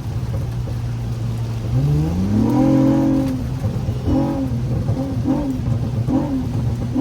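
Honda Accord V6 engine running steadily, then revving up with a rising pitch about two seconds in, followed by a string of short throttle blips, each rising and falling quickly.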